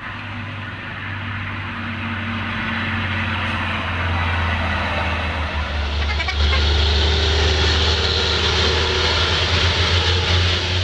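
Dump truck's diesel engine working hard under load up a steep climb, a steady deep drone that grows louder, with a step up about six seconds in.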